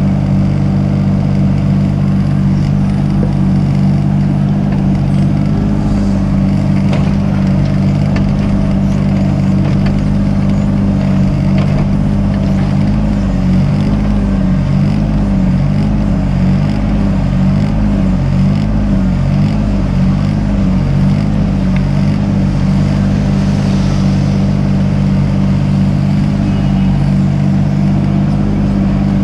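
Mini excavator's diesel engine running at a steady speed.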